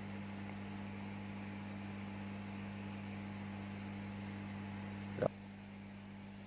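Steady electrical mains hum. About five seconds in there is one brief sound with a falling pitch, after which the hum gets slightly quieter.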